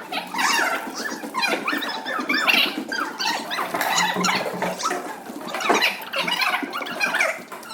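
A crowd of young children shouting and squealing at once, with high-pitched cries overlapping all the way through.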